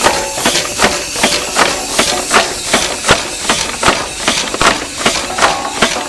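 15 horsepower Acme antique steam engine running on compressed air instead of steam: a regular knocking beat about two and a half times a second over a steady hiss of escaping air.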